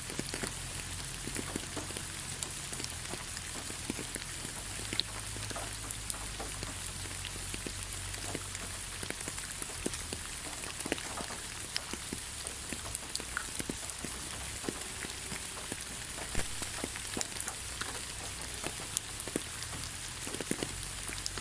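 Steady rain with many scattered individual drops tapping close by.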